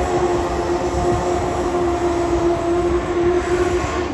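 Drag racing motorcycle engine held at high revs on one steady pitch, under a rasp of exhaust noise.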